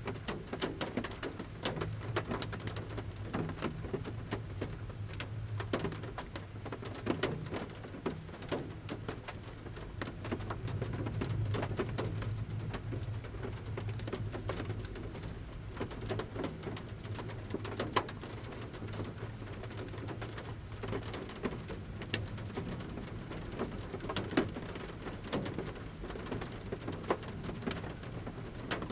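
Large raindrops falling from the forest canopy onto the metal roof of a camper van, heard from inside: irregular sharp taps over a steady low rumble.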